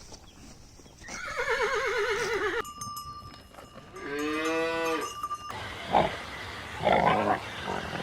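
Farm animal calls: a wavering call that falls in pitch, then a shorter call that rises and falls, followed by a few rough, breathy noises.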